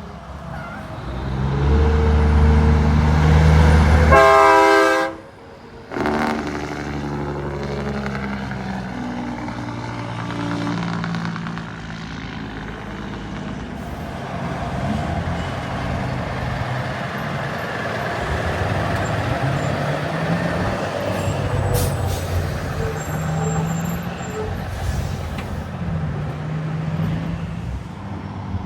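Heavy diesel trucks running and pulling away along a highway, their engine pitch stepping up and dropping back through gear changes. A short horn blast sounds about four seconds in.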